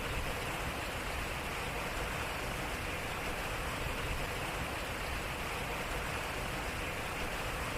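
Water running and splashing steadily at a turning water wheel, an even rush with no separate knocks or beats.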